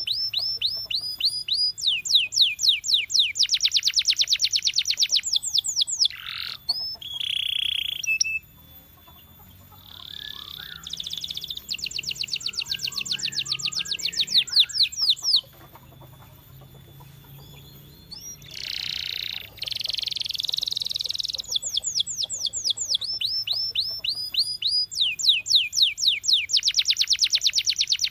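Domestic canary singing: phrases of fast trills, each a rapid run of repeated sweeping notes, with a short held note just before the first of two brief pauses.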